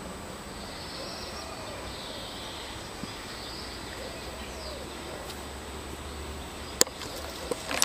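Outdoor ambience with faint, wavering bird calls and a low steady rumble, broken by a sharp click about seven seconds in.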